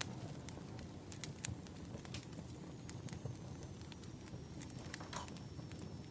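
Burning firewood crackling, with irregular sharp pops and snaps over a steady low rush.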